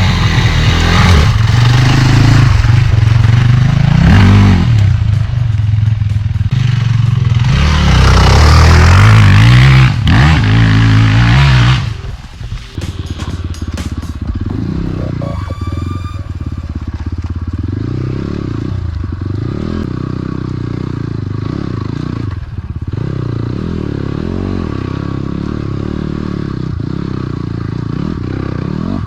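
Enduro motorcycle engine revving hard and loud for about the first twelve seconds, then running more quietly with its pitch rising and falling.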